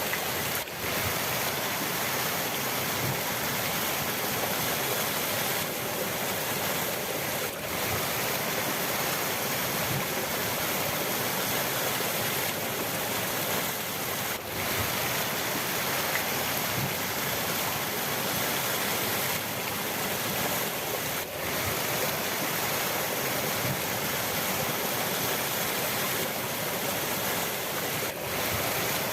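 River water rushing steadily, with a brief dip in loudness about every seven seconds.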